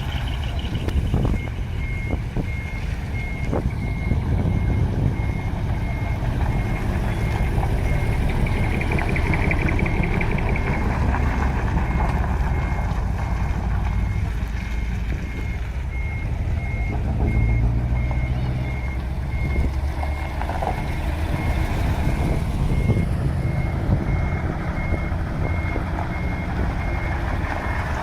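A truck's reversing alarm beeping steadily about twice a second over the low rumble of decorated box trucks' diesel engines, run with split manifolds and twin mufflers. The beeping starts about a second in.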